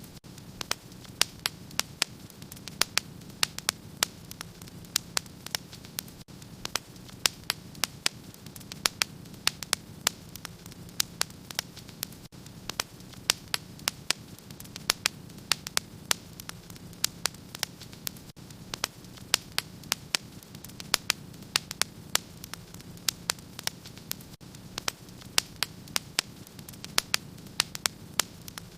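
Fire in a fireplace crackling: irregular sharp snaps and pops, a few a second, over a steady background hiss.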